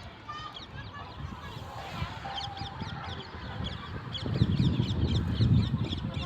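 A flock of birds calling, with many quick, short falling chirps overlapping each other. About four seconds in a louder low rumble joins them for a couple of seconds.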